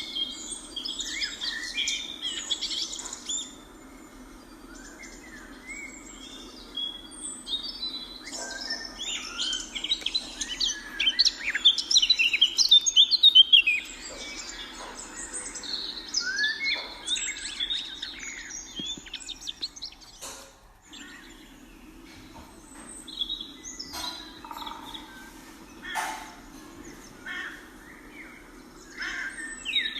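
A chorus of many birds chirping and calling together, busiest and loudest about ten to fourteen seconds in, over a steady low hum.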